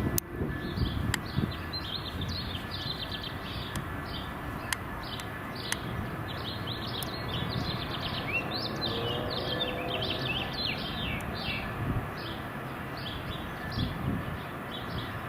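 Small birds chirping and singing, a dense run of short rapid chirps, over a steady low background rumble.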